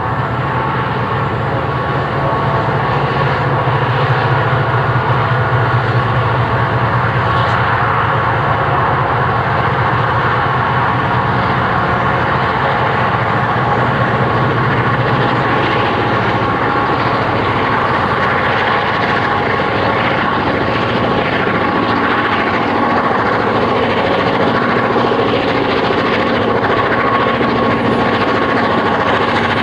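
EMD diesel-electric locomotives of the GM and ALF classes working together under load, their two-stroke engines giving a loud, steady drone that rises slightly a few seconds in.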